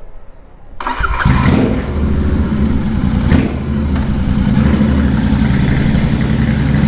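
Royal Enfield Continental GT 650's parallel-twin engine running loud and raw with its exhaust removed, cutting in suddenly about a second in and then running steadily.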